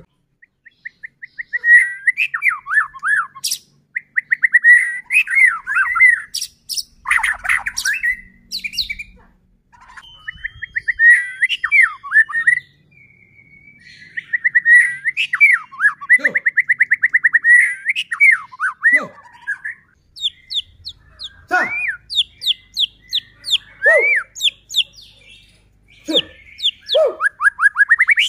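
White-rumped shama (murai batu) singing a loud, varied song. Fast rattling trills and whistled notes slide up and down, broken by short pauses. From about the middle on come runs of quick, sharp high notes.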